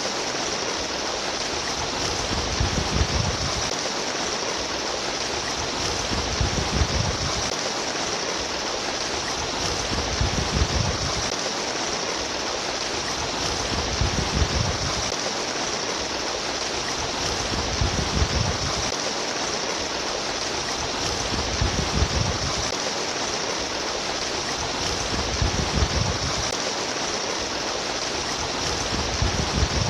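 Babbling stream water running steadily, with a low surge about every four seconds.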